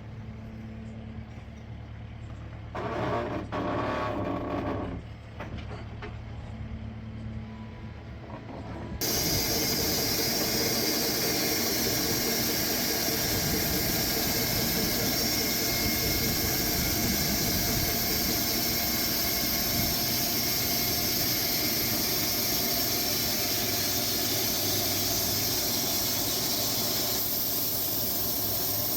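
A machine runs with a low steady hum, with a brief louder squealing stretch about three seconds in. About nine seconds in, a loud steady hiss cuts in suddenly: the sawmill cutting through the walnut log.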